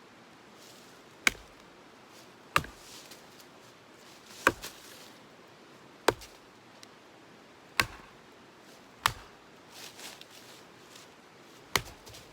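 Firewood being chopped: seven sharp strikes, roughly one every second and a half, at an irregular pace.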